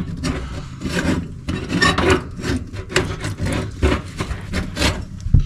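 Irregular scraping and rubbing from hands and tools working in a cramped sheet-metal furnace cabinet, with a dull knock near the end.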